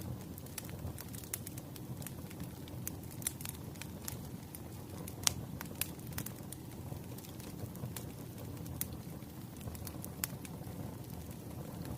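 Wood fire burning: a steady low rumble of flames with irregular sharp crackles and pops from the burning logs, the loudest pop about five seconds in.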